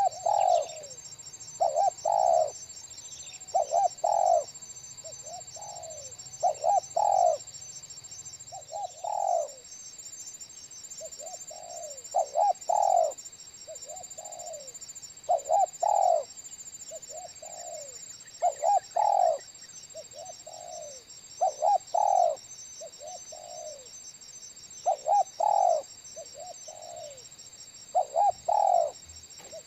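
Spotted dove cooing, a phrase of two to four notes repeated about every three seconds. A steady, pulsing, high insect drone runs underneath.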